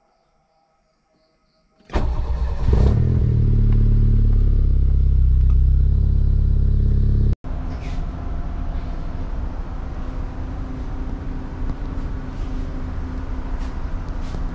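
A car engine starts about two seconds in and idles loudly with a steady low drone, heard from inside the car. About halfway through it cuts off abruptly to the steady noise and low hum inside a train carriage.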